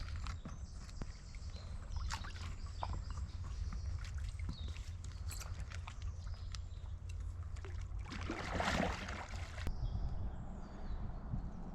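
Canoe being paddled through water, with scattered light knocks and a longer splash of water about eight seconds in.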